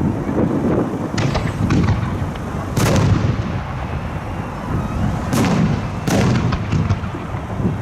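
Fireworks shells bursting: repeated deep booms, with three sharp cracks, about three seconds in and twice more a little after five seconds.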